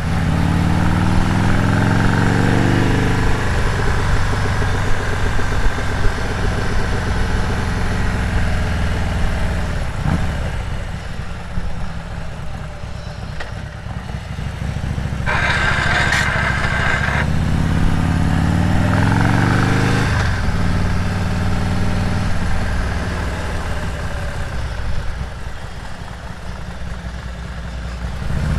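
Harley-Davidson Road Glide's V-twin engine pulling away and accelerating, its pitch rising through the first few seconds, then running steadily at cruise. It climbs in pitch again under throttle about eighteen seconds in. A brief rushing hiss comes about sixteen seconds in.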